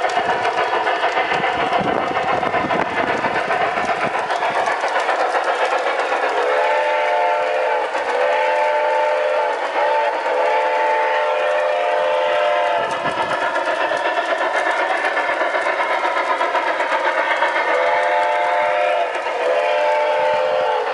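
G gauge model train running, its wheels clicking rapidly over the track. From about six seconds in, a multi-note horn blows a series of long blasts, pauses, then blows several more near the end.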